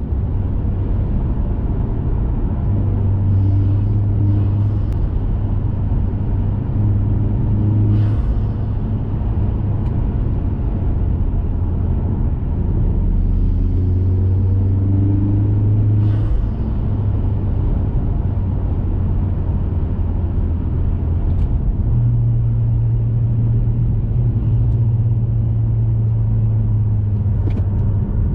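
2021 Mazda 3 Turbo's 2.5-litre turbocharged four-cylinder, heard through a CorkSport 80 mm cat-back exhaust, cruising with a steady low drone. The drone steps up and down in pitch a few times as the throttle changes.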